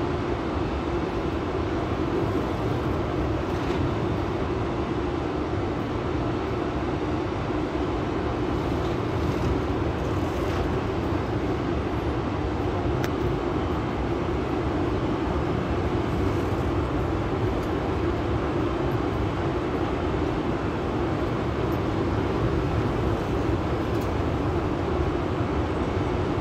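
Express passenger train rolling by: a steady rumble of wheels on rails, with a few faint ticks over it.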